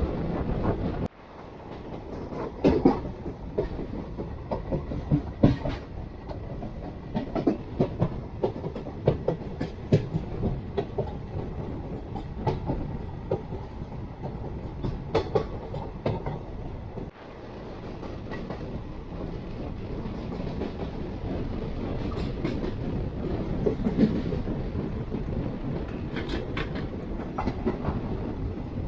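Jan Shatabdi Express passenger train running on the rails: a steady rumble with irregular clickety-clack, clanks and knocks from the wheels over the track. The sound drops off abruptly about a second in and again about seventeen seconds in, then builds back up.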